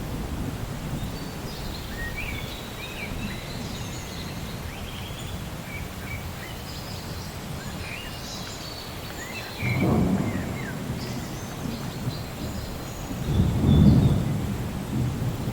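Thunder rumbling over steady rain, with a sudden louder rumble about ten seconds in and another near the end. Scattered short bird chirps sound above it.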